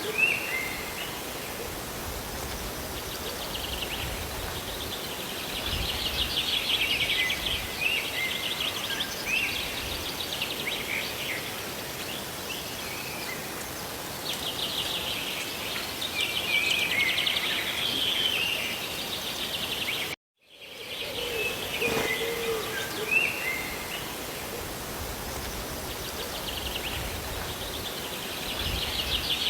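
Steady rain hiss with small birds singing repeated trills and chirps over it. The sound cuts out completely for a split second about two-thirds of the way through.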